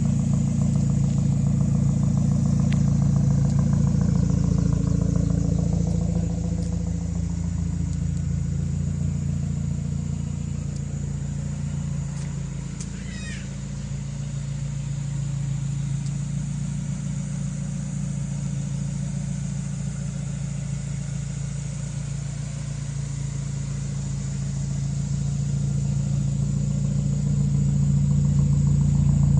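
1996 Dodge Neon's 2.0-litre SOHC four-cylinder engine idling steadily just after being started, quieter for a while in the middle and louder again near the end.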